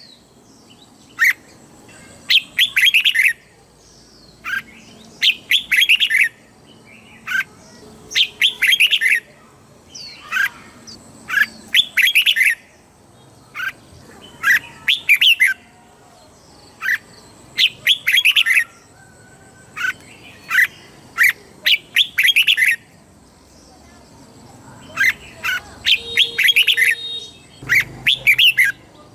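Red-whiskered bulbul singing: short whistled song phrases repeated about every two seconds, with brief pauses between them.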